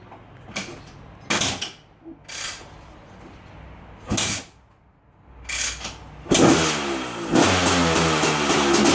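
KTM 250/300 EXC single-cylinder two-stroke engine being kickstarted on its first start after a top-end rebuild with a new piston: a few short kicks, then it catches on the second kick about six seconds in and runs with a fast, even popping beat, revved up a moment later.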